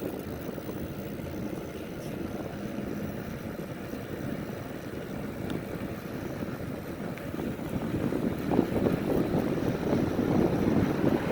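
Wind buffeting the microphone on a moving trail bike, a steady rumble that grows louder and gustier over the last few seconds.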